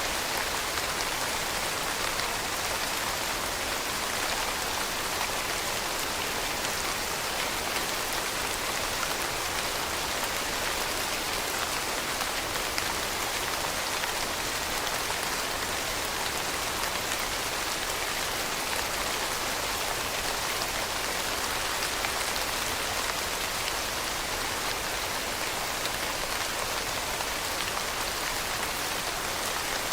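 Steady rain falling on a surface, a dense, even hiss of many drops.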